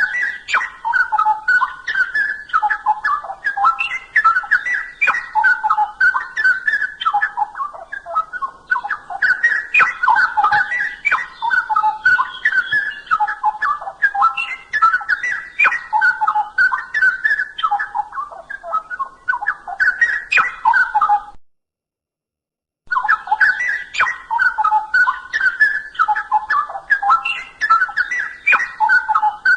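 Straw-headed bulbul singing, a fast run of loud whistled notes jumping up and down in pitch, broken once by a pause of about a second and a half about three-quarters of the way through.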